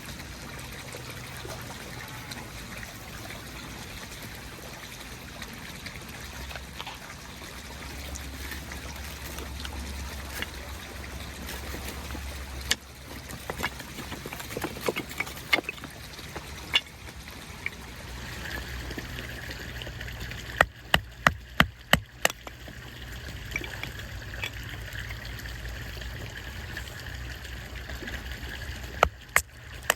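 Water trickling steadily, with scattered sharp clicks and knocks over it, the loudest a quick run of about six clicks roughly two-thirds of the way through.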